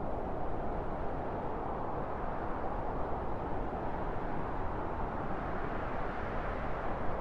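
Wind blowing steadily, a low rushing noise with no distinct gusts.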